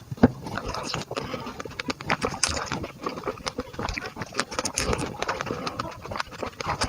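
Eating sounds: chewing and crunching food, a dense irregular run of crisp crunches and mouth clicks.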